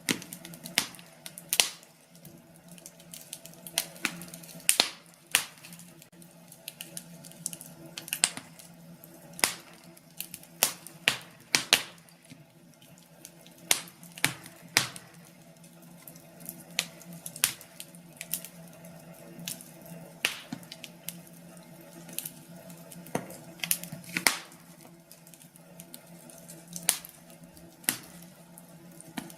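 Wood fire burning in a fireplace, crackling with irregular sharp pops and snaps, several louder pops standing out over a soft steady hiss.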